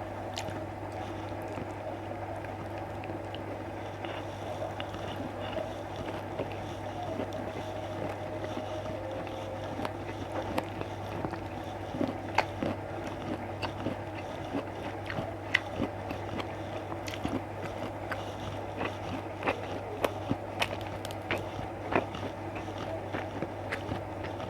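A person chewing and biting food close to the microphone, with scattered small clicks and taps that grow more frequent in the second half, over a steady background hum.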